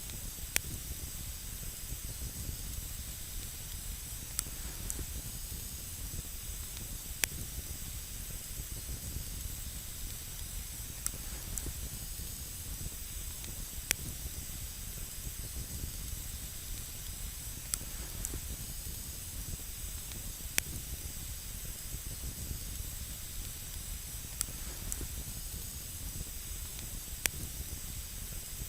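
Campfire burning on snow: a steady hiss with a sharp crackling pop every three to four seconds.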